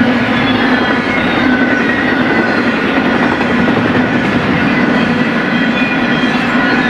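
BNSF freight cars rolling past on the rails with a steady, loud rolling rumble of wheels on track, and thin high tones drifting slightly in pitch above it.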